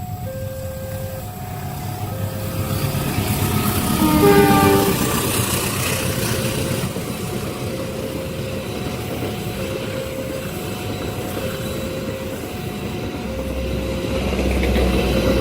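Level-crossing warning alarm cycling between two alternating tones while a train approaches. About four seconds in, the locomotive's horn blows briefly, falling in pitch. The train's rumble builds and grows heavier near the end as it reaches the crossing.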